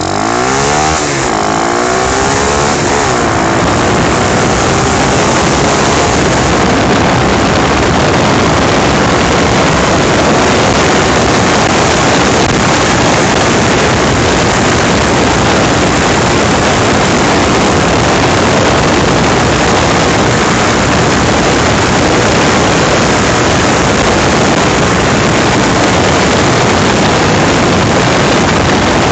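Apollo dirt bike engine accelerating hard, its pitch climbing over the first few seconds. Then a steady, loud rush of wind on the microphone at speed covers it.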